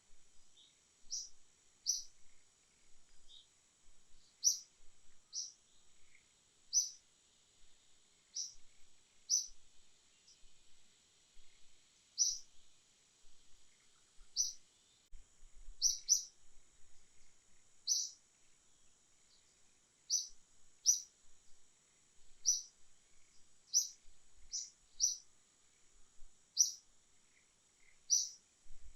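A bird giving short, high chirps, one about every second at an uneven pace, over a faint steady high-pitched hum.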